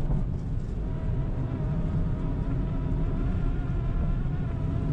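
A car driving, heard inside the cabin: a steady low rumble of engine and road noise with a faint wavering whine above it.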